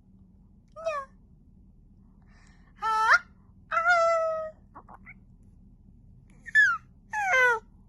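A young cat meowing five times in short, pitched calls, some sliding up or down, the middle one drawn out to almost a second.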